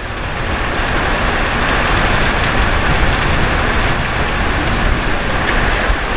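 Steady rain falling, an even hiss with a low rumble underneath, growing louder over the first second and then holding level.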